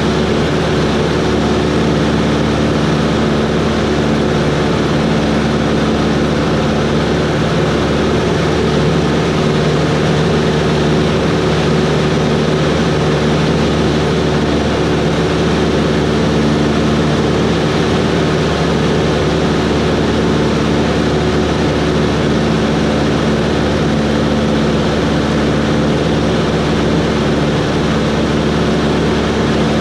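Cessna 140's piston engine and propeller running steadily: a constant drone with several steady tones that holds unchanged.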